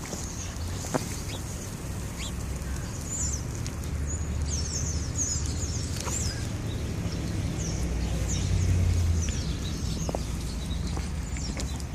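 Small birds chirping in many quick, high twitters over a steady low rumble.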